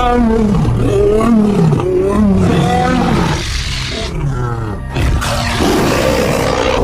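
Dinosaur roar sound effect: a run of growling, roaring calls whose pitch swoops up and down, then a breathy, hissing roar for the last couple of seconds.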